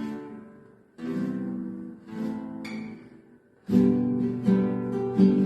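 Acoustic guitar: a few single strummed chords left to ring and fade, then after a short pause a steady campfire strumming rhythm starts over the G, Em, C, D progression.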